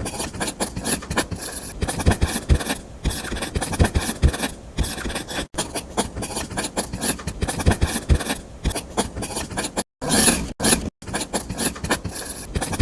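Rapid, repeated rasping and scraping strokes of a small hand tool on a rough surface, broken off briefly a few times.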